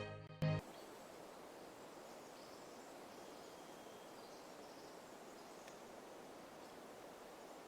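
Orchestral string music cuts off in the first half-second. Then there is faint, steady outdoor ambience: an even hiss with no distinct sounds standing out.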